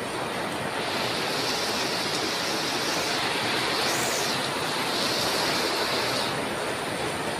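Heavy rain falling in a steady hiss. A sharper, higher hiss swells about a second in and fades again shortly before the end.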